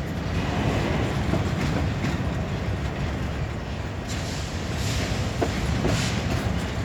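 Last cars of a freight train rolling past close by: a steady rumble of steel wheels on rail, with irregular sharp clacks as the wheels cross rail joints.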